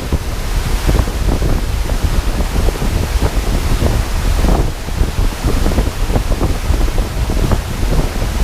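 Wind buffeting the microphone with a heavy low rumble, over the steady rush of a mountain stream.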